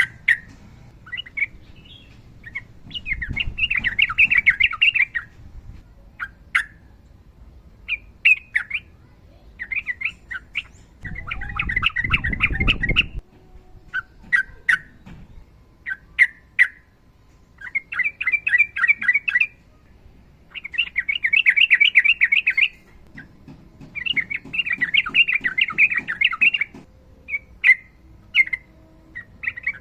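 Sooty-headed bulbul (trucukan) singing: short chirping notes broken up by several rapid chattering trills of about two seconds each. This is the long 'ropel' run that keepers use to stimulate their birds. A low rumble sounds under one trill near the middle.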